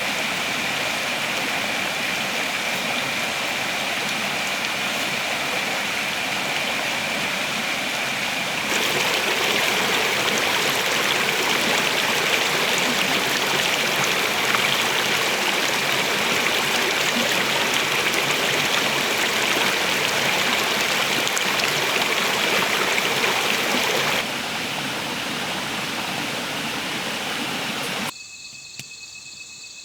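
Running stream water, a steady rushing that steps abruptly louder about nine seconds in and back down near 24 s. Near the end it cuts off sharply, leaving a much quieter scene with crickets chirping.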